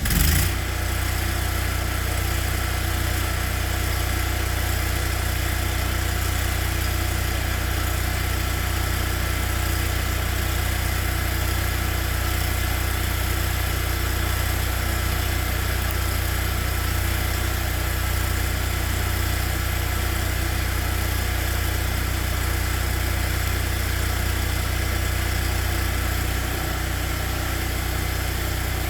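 A car engine idling steadily with an even low pulse, after a brief louder flare as it catches at the very start.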